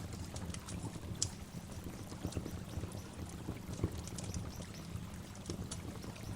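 Waterfall recording: steady rushing water with a low rumble and scattered splashes and drips.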